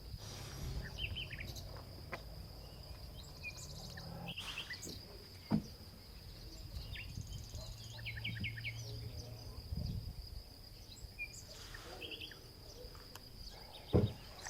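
Outdoor ambience: small birds chirping in short clusters over a steady high-pitched tone and a low wind rumble. There is a sharp knock about five and a half seconds in and another near the end.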